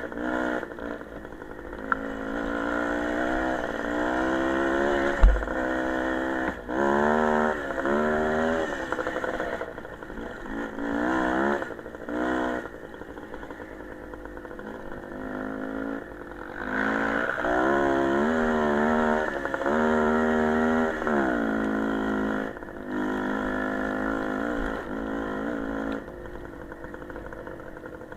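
Small motorcycle engines revving up and easing off over and over while riding, the pitch climbing and dropping through the gears. There is one sharp knock about five seconds in.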